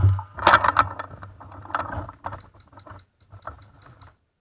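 A loud knock, then an irregular run of sharp mechanical clicks and rattles, thickest about half a second in and again around two seconds, over a low steady hum.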